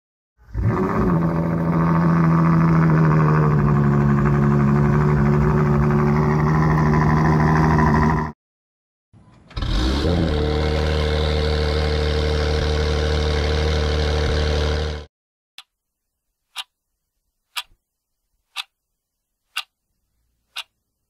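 Sports-car engine played in two clips, each opening with a quick rev that settles into steady running. A countdown clock then ticks about once a second.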